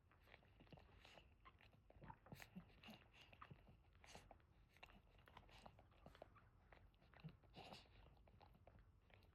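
Faint wet mouth sounds from a whelping Boston terrier and her newborn puppies: an irregular run of small clicks and smacks of licking and suckling.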